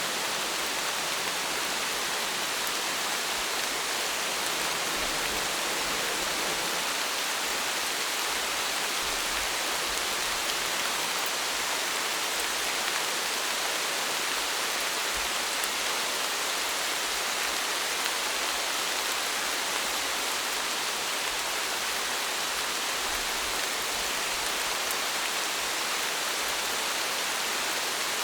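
Steady rain: an even, unbroken hiss of many drops, with no change in strength and no thunder.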